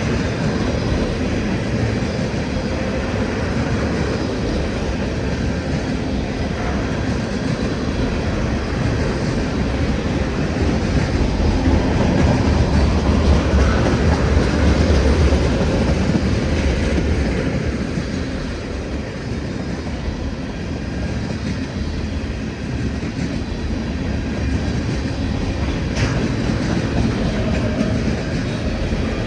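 Freight train cars rolling past, a continuous steel-wheel rumble with clickety-clack over the rail joints. It swells louder for several seconds around the middle.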